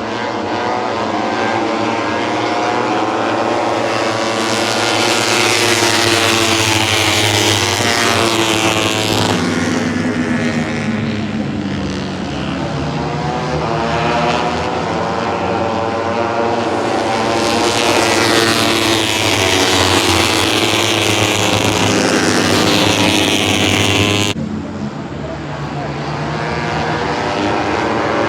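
Several Moto3 racing motorcycles, each with a 250 cc single-cylinder four-stroke engine, running at high revs past the microphone. Their pitches overlap and rise and fall as they go by, and the sound drops off suddenly about 24 seconds in.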